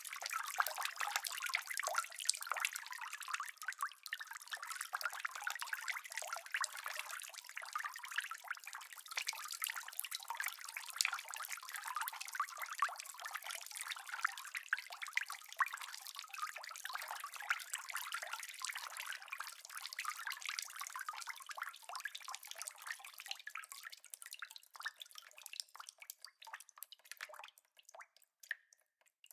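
Rain falling, a dense patter of many close drops that thins to scattered separate drips over the last few seconds.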